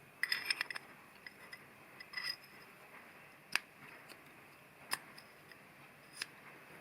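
Light, hard clicks and clinks: a quick rattle of clicks at the start, another short cluster about two seconds in, then three single sharp clicks spaced more than a second apart.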